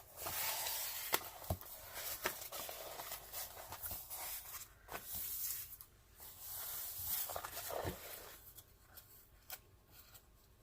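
Rustling and crinkling of diamond-painting packaging and canvas being handled, with scattered light clicks and taps, thinning out near the end.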